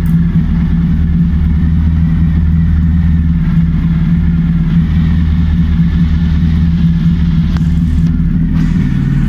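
Honda ST1100's 1084 cc V4 engine idling steadily at a constant low pitch.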